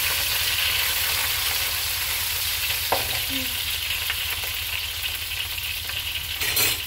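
Chopped garlic and ginger sizzling steadily in hot oil in a nonstick wok, with a spatula stirring them and a couple of light knocks.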